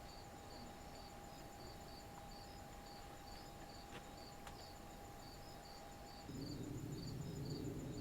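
Crickets chirping in an evening chorus, faint and steady, with high chirps repeating about three times a second. Near the end, music fades in over the chirping.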